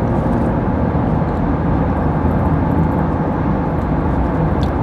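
Steady road and engine noise heard inside the cabin of a moving car, a low even rumble.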